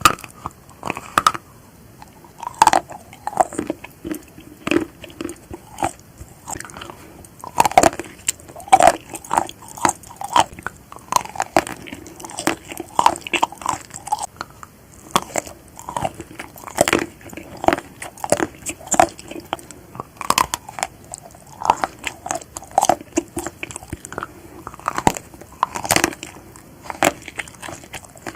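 Chocolate-coated marshmallows being bitten and chewed, with many sharp, irregular cracks and clicks throughout.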